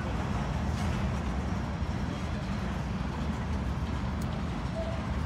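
Freight train's tank cars rolling past, a steady low rumble of wheels on the rails.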